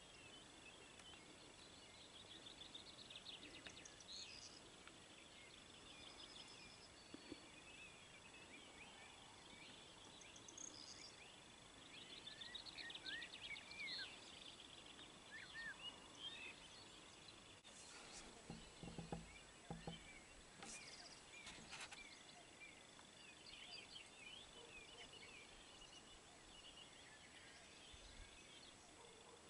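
Faint birdsong: several small birds chirping and trilling over a quiet outdoor background, with a faint steady high tone and a few soft low knocks about two-thirds of the way through.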